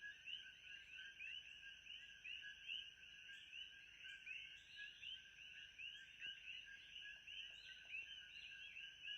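Faint ambience of a dense chorus of small animals, many short chirping calls overlapping without pause, over a thin steady high hiss.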